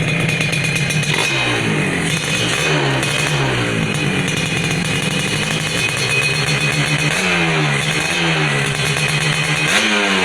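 Yamaha RX-King two-stroke single-cylinder motorcycle engine running through an aftermarket exhaust, tuned to sound like a Kawasaki Ninja two-stroke. It holds steady for about a second, then is revved over and over, the pitch rising and falling back, with several quick throttle blips near the end.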